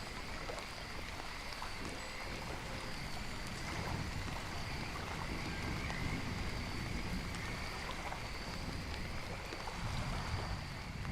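Rain-and-nature ambience: a steady wash of water noise, with faint, steady high-pitched tones running above it.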